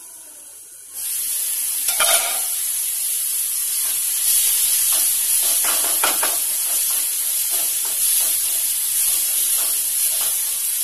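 Tomato and spice masala sizzling in a kadai, starting suddenly about a second in as the lid comes off, with a wooden spatula scraping and stirring through it. A knock sounds about two seconds in.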